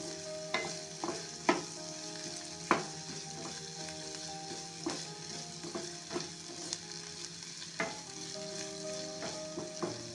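Chopped onion and ginger-garlic-chilli paste sizzling in ghee in a nonstick pan, with a steady frying hiss. A wooden spatula stirring them knocks and scrapes against the pan at irregular moments, the loudest taps in the first three seconds.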